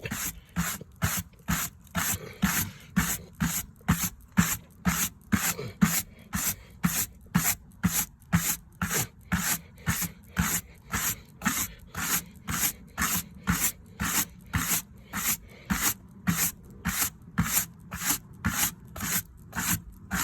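Fine wire brush scrubbing blowtorch-charred pine cladding in rhythmic back-and-forth strokes, about two a second, scraping off the burnt surface layer to bring up the shou sugi ban grain.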